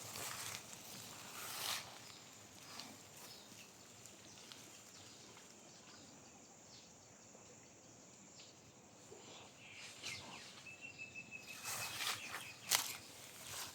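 Footsteps on a garden path over quiet outdoor ambience. The steps fade in the middle and come back more often near the end, and a short, steady, high call sounds shortly before the end.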